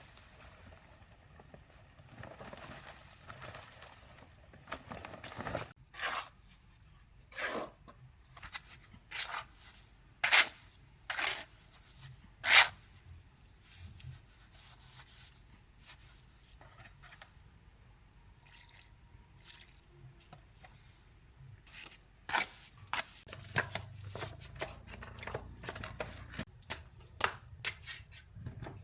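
A string of short, sharp knocks at irregular intervals, about one a second, loudest around the middle, then a quieter stretch and a faster run of lighter knocks near the end.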